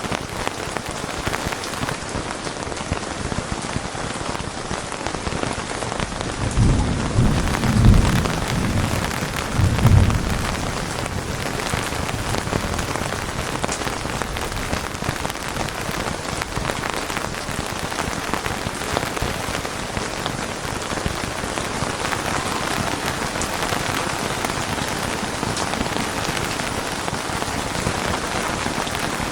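Steady rain falling on a surface, with a low rumble of thunder rolling in about a quarter of the way through, swelling twice before it fades back under the rain.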